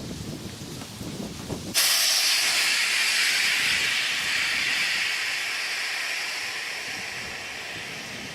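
A loud hiss that starts suddenly about two seconds in and slowly fades away, after a softer crackly rustling.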